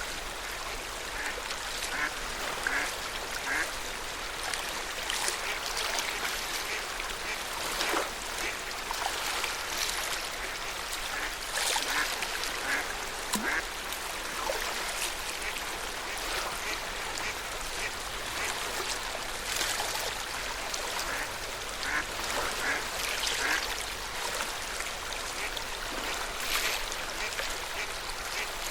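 Lake water lapping and splashing against the shore in small waves. Short runs of duck quacks come in a few times.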